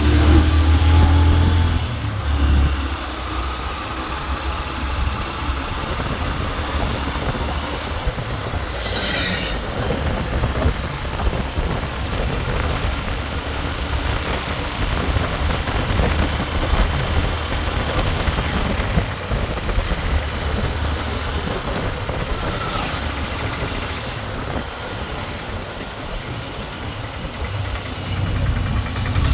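Engine and road noise of a moving ride, with heavy low rumble from wind on the microphone. About nine seconds in there is a brief high, falling squeal.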